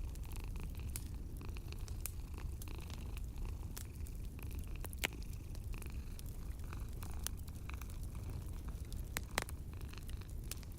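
A cat purring in a steady low rumble, with a wood fire crackling over it in scattered sharp pops, two of them louder, about halfway through and near the end.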